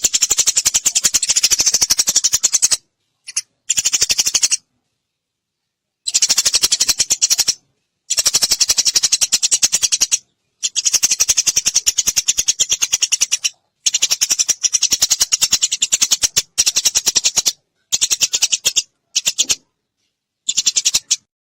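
Eurasian tree sparrow chattering: loud, very rapid trains of harsh chirps in bouts of one to three seconds, cut by short gaps of dead silence.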